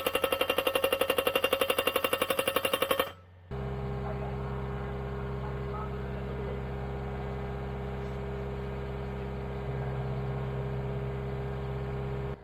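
A fast, even mechanical rattle for about three seconds, then, after a brief gap, a steady low hum that cuts off abruptly near the end.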